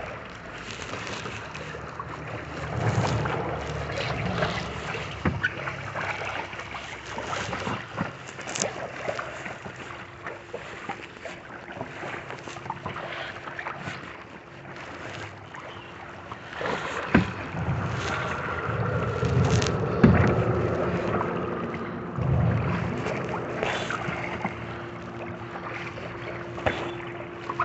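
Kayak paddling: paddle strokes splashing in the water and scattered knocks of paddle on hull, with a steady low hum coming in about halfway through.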